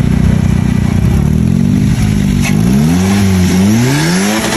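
Toyota VVT-i four-cylinder engine being revved for a sound check. It holds a steady speed for about a second, then is blipped up and down several times, the pitch rising and falling, with the longest climb near the end.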